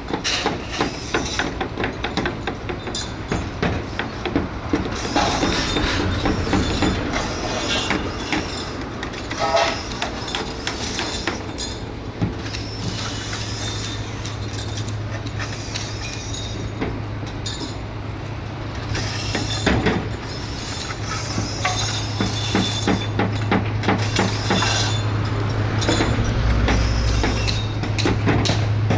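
Shipyard work noise: irregular metallic clanks and knocks over a steady low machine hum that sets in partway through.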